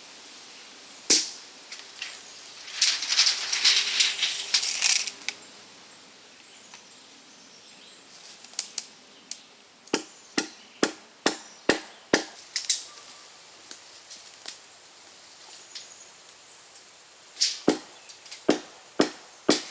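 Sharp wooden knocks and cracks: one crack about a second in, a stretch of crackling brush from about three to five seconds, then quick runs of strikes about two a second, one in the middle and one near the end.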